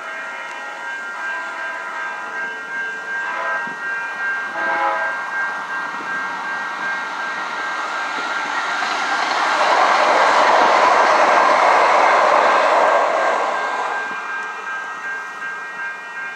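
Metro Blue Line light-rail train passing at a grade crossing, with crossing warning bells ringing steadily throughout. Two short horn blasts come about 3 and 5 seconds in. The rail and wheel noise then swells, is loudest about 10 to 13 seconds in, and fades away.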